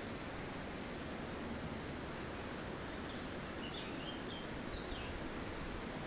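Steady wind rushing through forest trees, with a few faint high bird chirps between about two and five seconds in.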